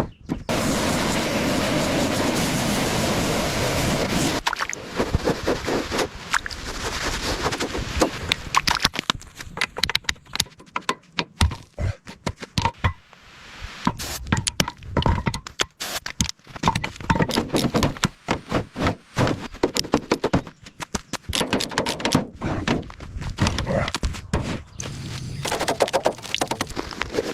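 Workshop work on a car: a steady rushing noise for about four seconds, then a long irregular run of knocks, thunks and metal scrapes as parts are handled and taken apart.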